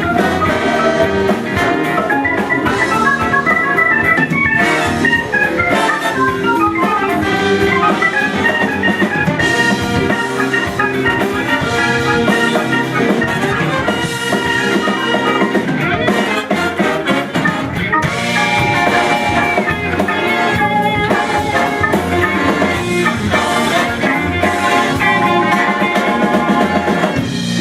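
Large soul-funk band playing an instrumental, with drum kit, brass and organ.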